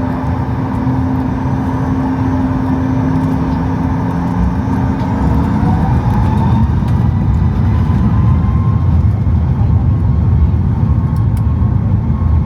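Cabin noise inside a Boeing 737 MAX 8: continuous engine rumble with a steady hum that stops about six seconds in. Then a tone rises in pitch and the rumble grows louder as the CFM LEAP-1B engines spool up.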